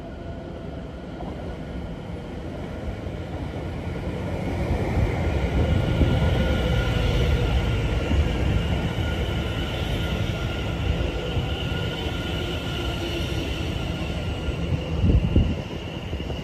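A train running along the track, its rumble of wheels on rails growing louder over the first few seconds and then holding, with a steady high whine and a lower whine that slowly falls in pitch. A short louder low surge comes near the end.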